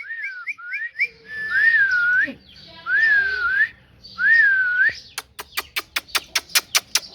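Whistling: a few quick rising whistled notes, then three longer wavering whistles. A run of rapid sharp clicks, about six or seven a second, follows near the end.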